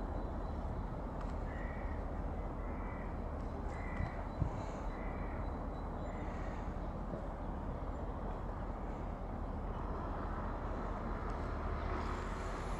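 A bird calls five times in an even series, about one call a second, over a steady low rumble; one brief thump comes partway through.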